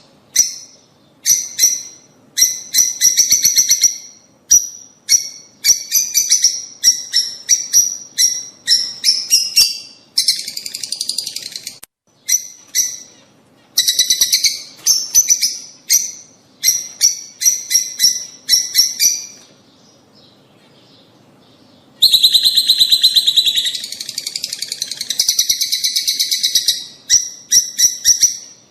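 Lovebirds chattering: rapid trains of shrill chirps in repeated bursts, with a pause of about two seconds a little past the middle. It is chatter of the kind played to stimulate rosy-faced and Fischer's lovebirds to breed.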